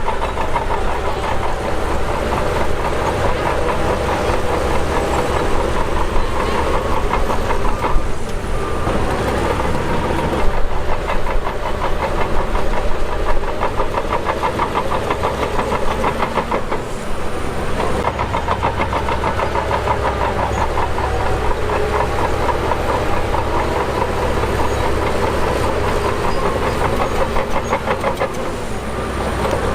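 Shantui DH17 bulldozer's diesel engine running under working load, with a dense, rapid clatter of its steel tracks. The engine sound shifts a few times as it works.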